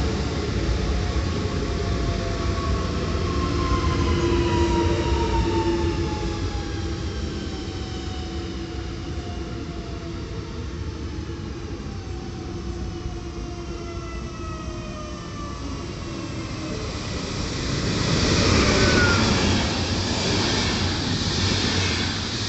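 Electric passenger train on the track, its traction motors whining in several tones that fall steadily in pitch as it runs down, over a low rumble. About eighteen seconds in, a louder rush of rail noise swells up.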